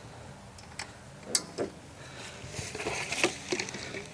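A few light knocks and clicks of a petrol canister being handled, then about a second of splashing and rattling from about two and a half seconds in as petrol is poured from it.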